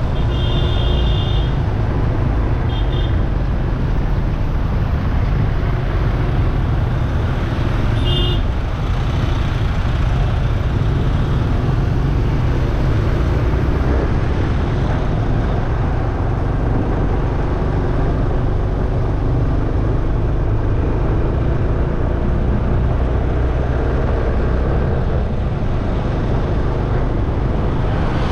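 Steady rumble of road traffic and wind during a street ride, with short high horn beeps near the start, about three seconds in, and again about eight seconds in.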